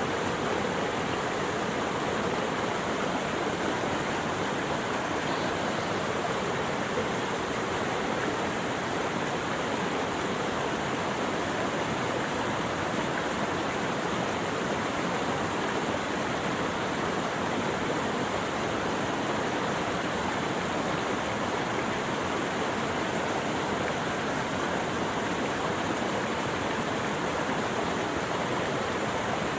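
Flowing water rushing steadily in an even, unbroken hiss.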